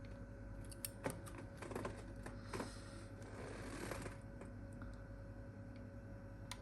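Faint scattered clicks and taps of small parts and tools being handled during a phone screen repair, with a short rustle about three seconds in, over a steady electrical hum.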